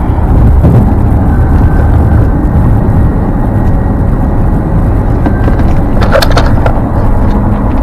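Loud, steady rush of wind, road and engine noise from a Ford Explorer Sport with its twin-turbo V6, held at about 150 mph top speed.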